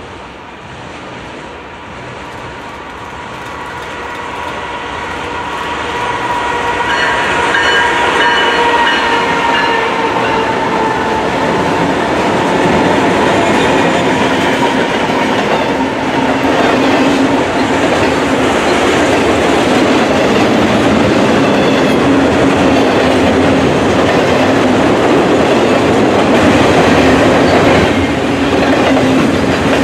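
Diesel freight locomotives approaching and passing, growing steadily louder, their engine whine dropping slightly in pitch as they go by. They are followed by a double-stack container train rolling past with a steady, loud rumble of wheels on rail.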